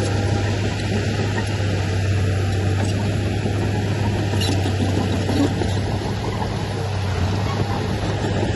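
Heavy diesel earthmoving machinery, a bulldozer or dump truck, running steadily with a constant deep hum.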